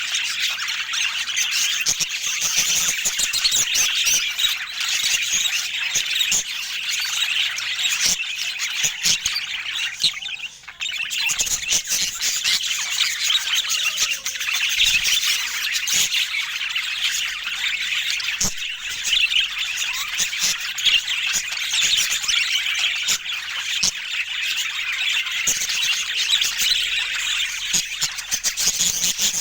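A group of budgerigars chattering and warbling non-stop, many calls overlapping, with a brief lull about ten seconds in.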